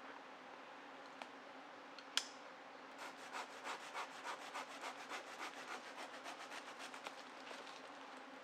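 Hand saw cutting wood in quick, even strokes, about three a second, starting about three seconds in and fading near the end. A single sharp click comes just after two seconds.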